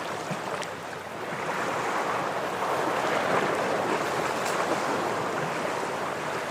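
Ocean surf washing against shoreline rocks. The rush of water swells about a second and a half in, then slowly eases.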